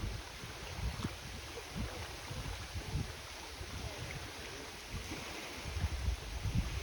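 Wind gusting on the microphone with irregular low buffeting, over a steady wash of small lake waves lapping the shore.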